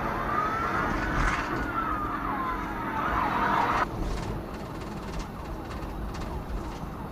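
Police car siren wailing, rising and falling, then cutting off suddenly about four seconds in, leaving steady vehicle and road noise.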